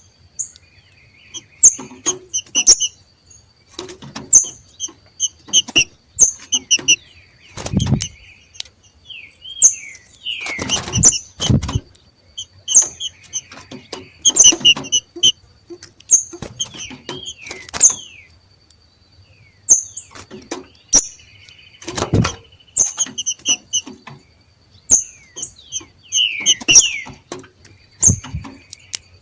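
Green-winged saltators (trinca-ferro) giving their 'macheado' call: clusters of sharp chips and short glided notes repeated about every second, with a few dull low thumps among them.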